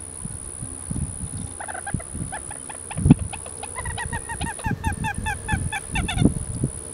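A wetland bird calling a rapid run of short, repeated notes, sparse at first and then about four or five a second, stopping abruptly about six seconds in. A steady high-pitched insect whine runs underneath, with scattered low thumps.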